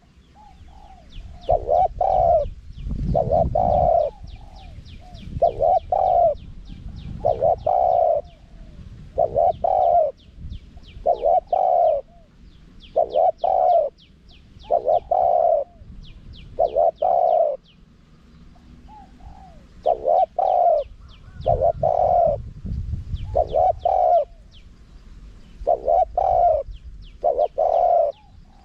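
Spotted dove cooing: short repeated coo phrases, about one every one and a half to two seconds, with faint high chirps of other small birds behind and a low rumble twice.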